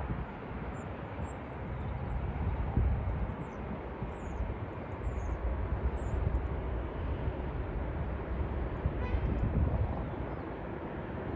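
Jet airliner engine noise from a landing plane, a dense steady rush with uneven low gusts of wind buffeting the microphone. Small birds chirp faintly above it.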